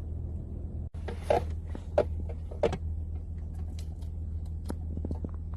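Steady low drone of a car's cabin while the car drives or idles, with a few short clicks and knocks from inside the car.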